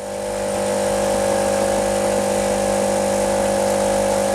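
Espresso machine's vibration pump running steadily while pulling a shot, a loud even hum that swells a little in the first second and then holds steady.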